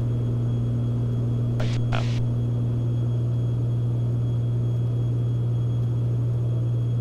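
Steady drone of the Beechcraft Baron B55's twin piston engines and propellers in flight, heard inside the cockpit, an even low hum with no change in pitch.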